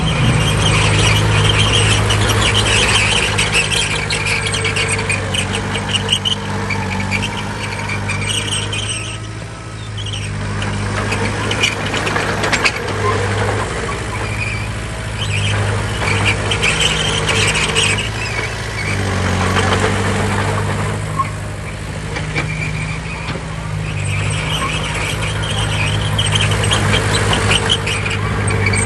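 Bulldozer's diesel engine running under load, its level easing off and building again a few times, with intermittent high-pitched squealing from the machine.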